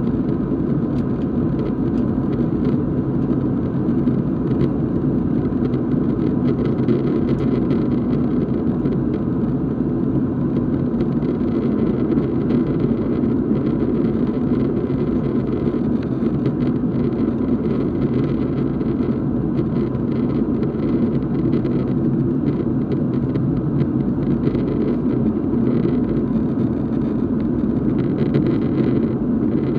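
Steady cabin drone inside a Boeing 737 airliner in flight: engine and airflow noise, even and unchanging.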